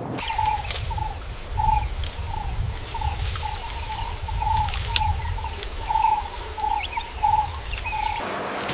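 A bird repeating a short call note, roughly two a second, over a steady high insect drone and a low rumble. Everything cuts off abruptly near the end.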